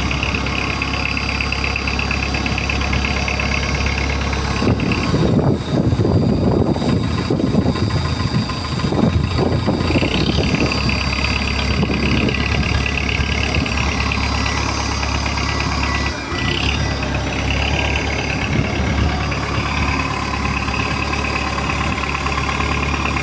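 Heavy vehicle engine running steadily while moving a large steel structure, louder and rougher for a few seconds a little way in, then settling back.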